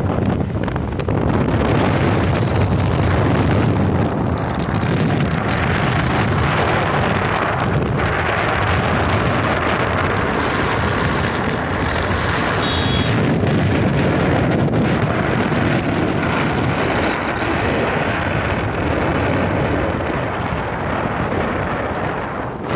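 Wind rushing over the microphone of a moving motorcycle, with the engine and road noise running steadily underneath.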